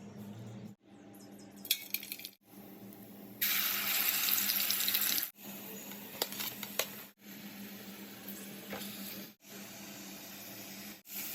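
Kitchen sounds in short clips cut together: a tap running for about two seconds, a few seconds in, with a few short clinks before and after.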